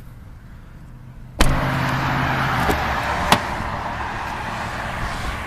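A sudden clunk from a car door about a second and a half in, followed by a steady rush of noise and two more sharp clicks.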